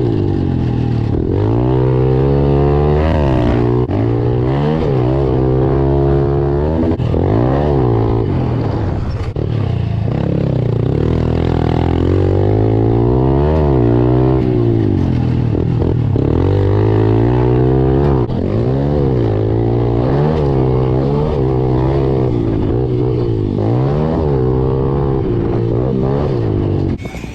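Pit bike engines racing on a motocross track, revving hard and backing off over and over, the pitch climbing and dropping every second or two.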